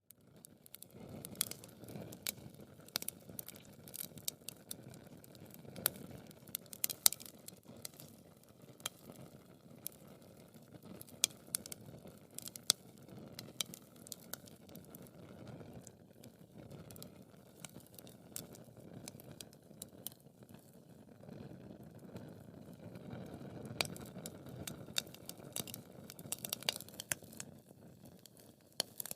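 Wood fire burning in a fireplace, crackling with frequent irregular sharp pops and snaps over the low, even sound of the flames.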